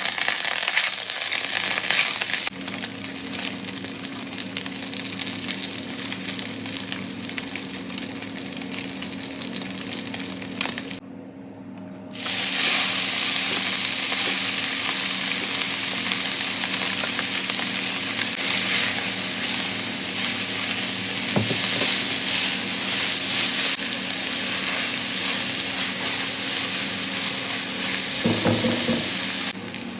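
Food sizzling and crackling in a hot frying pan as a spaghetti stir fry is stirred, over a steady low hum. The sizzle drops away for about a second roughly a third of the way through, then comes back louder.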